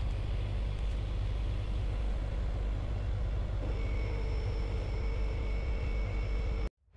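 Ford Escape's engine idling steadily, heard from inside the cabin, while the freshly serviced 6F35 automatic transmission is run through its gears. A faint high steady whine joins about halfway through, and the sound cuts off suddenly near the end.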